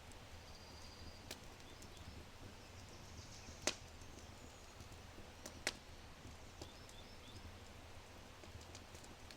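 Oak fire burning low, giving a few sparse sharp crackles and pops, the loudest a little before the middle. Faint high bird chirps come through now and then.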